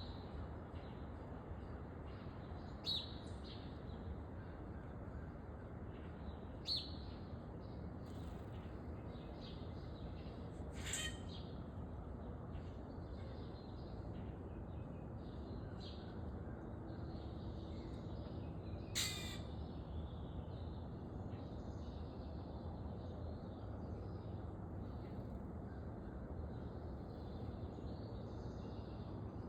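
Backyard songbirds at a feeder chirping in frequent short calls, with a few louder single calls standing out, the strongest near a third and two-thirds of the way through, over a steady low rumble.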